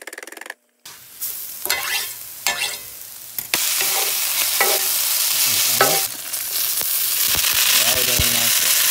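Hash frying in a hot skillet, stirred and scraped with a wooden spatula: a few separate scraping strokes at first, then from about three and a half seconds in a loud, steady sizzle.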